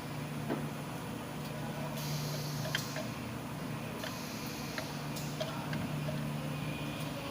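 Steady low hum with scattered light clicks and taps of tools being handled.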